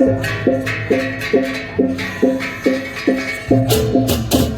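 Balinese baleganjur gamelan playing: pitched metal strikes in a steady beat, about two and a half a second, with clashing cymbals joining in near the end.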